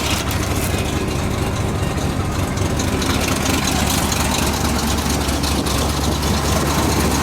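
Freshly built Chrysler 360 small-block V8 of a 1979 Dodge pickup idling steadily.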